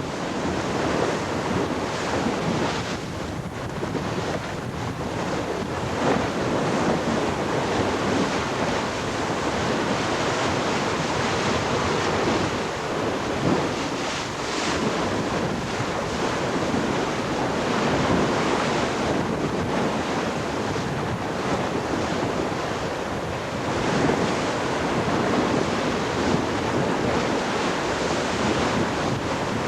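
Water rushing past a racing yacht's hull as it sails at about 15 knots in a strong breeze, with wind buffeting the microphone.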